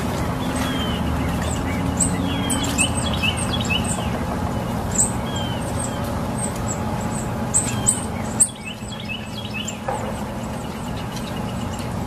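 Small birds chirping: many short, high chirps and quick falling whistles, scattered irregularly, over a steady low hum.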